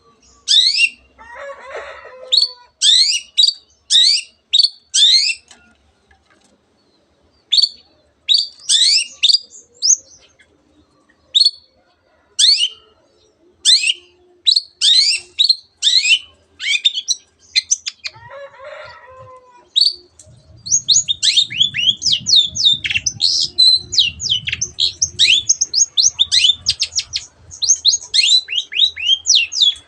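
Long-tailed shrike (cendet) singing: loud bursts of sharp, downward-sweeping notes with short gaps, running into a rapid unbroken string of notes about two-thirds of the way through. Its song holds mimicry of canary and other birds. A lower, harsher call comes twice, near the start and just before the rapid run, and a low rumble sits under the rapid run.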